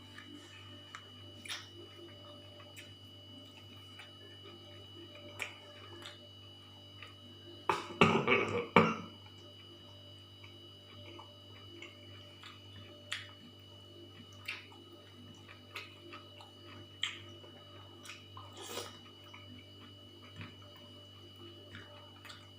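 Eating sounds: faint chewing and small mouth and hand clicks now and then, with a brief louder clatter of several strokes about eight seconds in. A steady faint electrical hum runs underneath.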